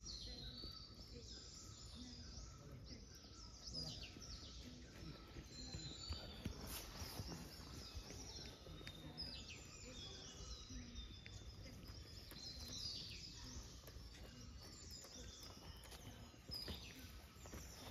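Several birds chirping and whistling in the trees, faint and repeated short calls, over a low steady background rumble.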